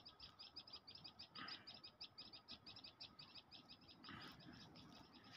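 A bird chirping faintly in a fast, even series of short high notes, about seven a second.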